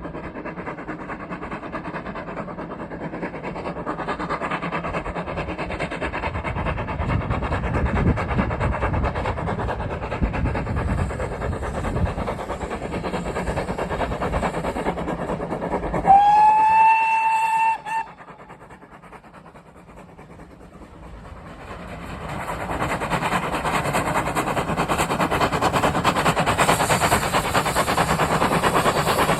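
A heritage train runs with a steady rumble. About halfway through, it sounds its whistle once for about two seconds, a single clear note that glides up at the start and is the loudest thing heard. The rumble then drops away and builds up again.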